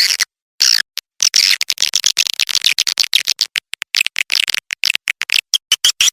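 Recorded edible-nest swiftlet calls played as a lure for a swiftlet house: rapid high-pitched chirps and twitters in quick choppy bursts, broken by short silent gaps, with a longer gap near the start.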